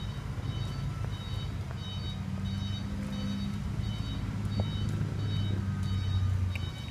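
Reversing alarm of a ten-wheel dump truck beeping about twice a second over the truck's diesel engine running, the engine getting louder a few seconds in and easing off near the end.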